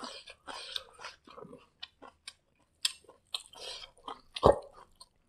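Close-up eating sounds: chewing and wet mouth clicks and smacks, with fingers working through fried rice on the plate. A single louder thump comes about four and a half seconds in.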